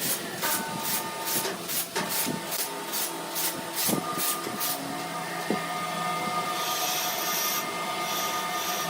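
Sawmill machinery running: evenly repeating hissing strokes, about two to three a second, stop about five seconds in, and a steadier machine hum with tones carries on.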